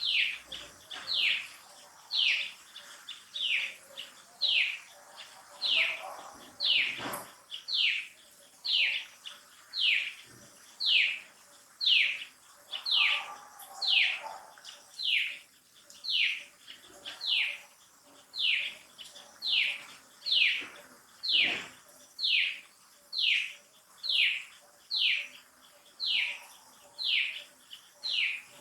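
Infant macaque crying: a loud, high-pitched falling cry repeated about once a second without pause.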